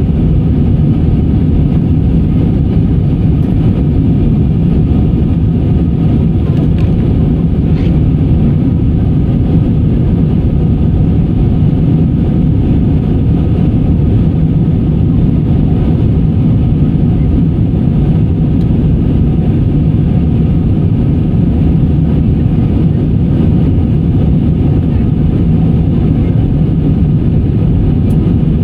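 Steady engine and air noise inside a jet airliner's cabin, a loud even rumble with a faint low hum.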